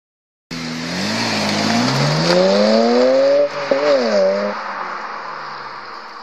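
BMW 335i accelerating hard away, its engine revs climbing steadily. A brief drop at a gear change about three and a half seconds in, then a second short climb. The engine sound then fades as the car draws off into the distance.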